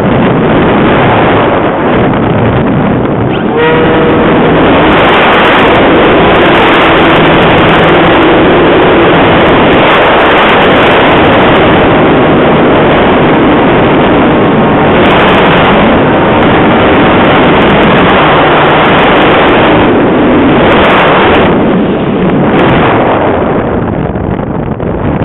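Heavy wind blasting across the microphone: loud, steady rushing and buffeting, easing slightly near the end.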